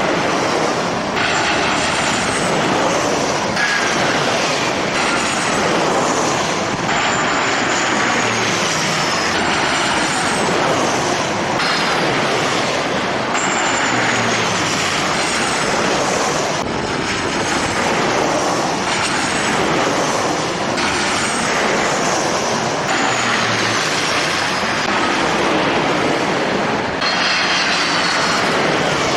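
Jet airliner engines running loudly, with a high whine that glides downward again and again over a steady rushing noise.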